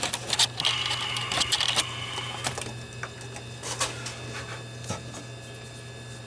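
Makita belt file sander briefly grinding a weld on sheet steel, a scratchy run with a thin high tone lasting about two seconds, with sharp clicks and knocks of the tool being handled. A steady low hum runs underneath.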